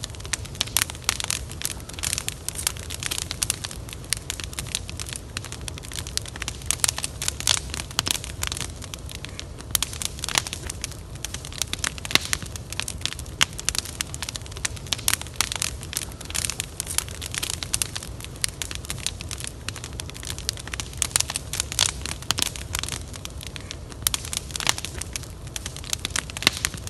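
Wood fire burning, with dense, irregular crackles and pops over a steady low rumble.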